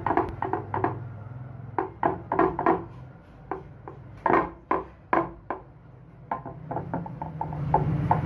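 A series of irregular sharp knocks and taps, a few a second, with a low hum underneath that grows louder near the end.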